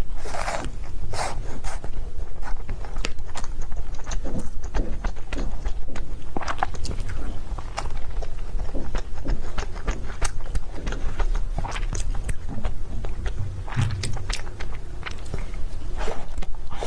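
Close-miked eating of cake: irregular wet mouth clicks and smacks of chewing, over a steady low rumble.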